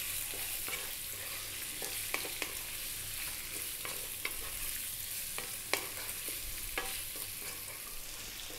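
Parboiled potato cubes frying in olive oil in a wok, a steady light sizzle, with the scrape and scattered taps of a wooden spoon as they are stirred.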